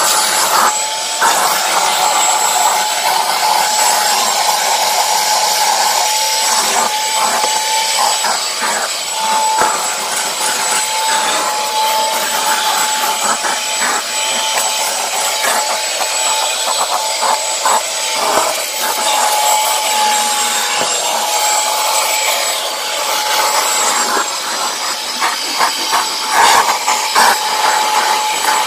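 Commercial vacuum cleaner running steadily, its motor giving a constant high whine over the rush of suction, with scraping and ticking as the tool is worked over carpet to pull up pet hair and dry soil.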